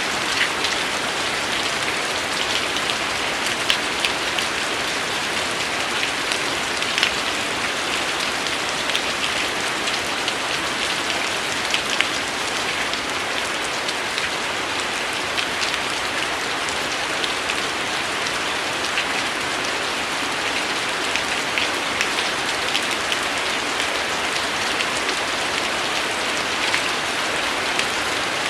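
Steady rain falling, an even hiss with many sharp individual drop hits standing out throughout.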